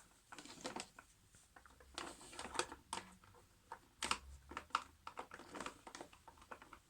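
Irregular light clicks and taps of a hand tool and small hard parts being handled as a part is worked loose.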